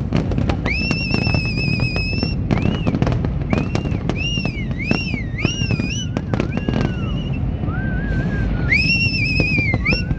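New Year fireworks going off densely: a continuous run of bangs and crackles over a low rumble. Shrill, wavering whistles sound over it several times, each lasting a second or two.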